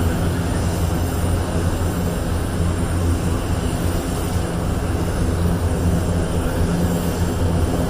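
Aircraft engine noise from a flying display: a steady, continuous drone with a strong low hum.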